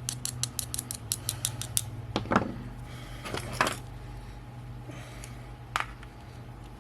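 Small clicks and ticks of a precision screwdriver and small metal parts being handled at close range. It starts with a fast run of light clicks, about seven a second, then a few separate sharper ticks, over a steady low hum.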